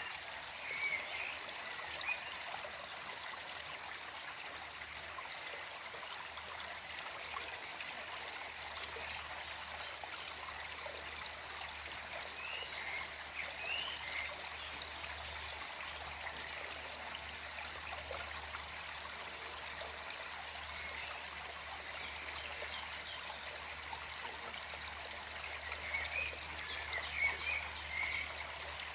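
Small forest stream flowing steadily over stones, with scattered songbird chirps. A quick run of four high notes comes three times: about 9 seconds in, about 22 seconds in, and near the end.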